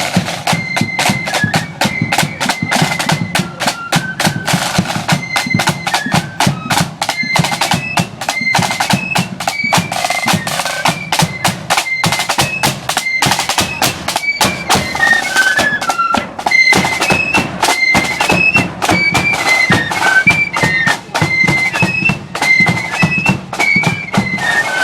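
Marching flute band playing: high flutes carry a stepping melody over rapid, dense snare and bass drumming.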